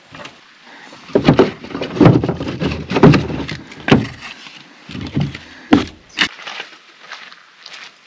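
Sticks and kindling being handled and broken: a run of sharp cracks and snaps with rustling and knocking, loudest between about one and four seconds in, then a few more cracks near six seconds.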